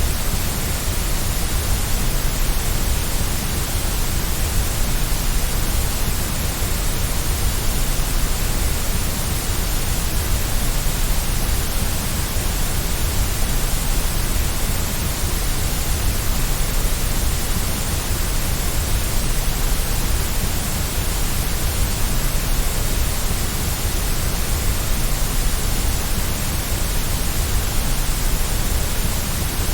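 Steady white noise for baby sleep: an even, unbroken hiss that never changes.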